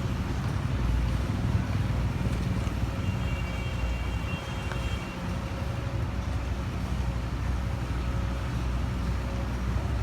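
Heavy diesel engine running steadily with a low drone. A brief faint high-pitched tone is heard about three seconds in.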